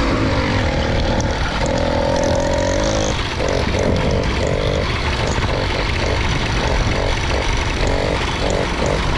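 Small motorbike engine running on the move, its note steady at first and then surging on and off in short, repeated pulses about once or twice a second: stuttering, with the bike short on power, which the rider blames on its new sprocket.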